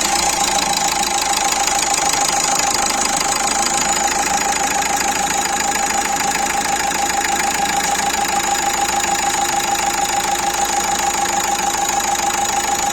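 Renault Duster 1.5 dCi four-cylinder turbodiesel engine idling steadily with a constant tone, just after starting, with the alternator pulley replaced. It stops near the end and runs down over about a second.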